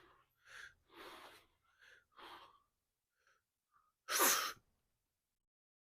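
A weightlifter breathing hard during a heavy set of barbell squats. Several short sharp breaths come first, then one loud forceful exhale about four seconds in.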